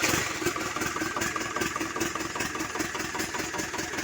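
Freshly overhauled Hino 130 HD truck's diesel engine idling steadily just after starting, with an even, rapid firing pulse.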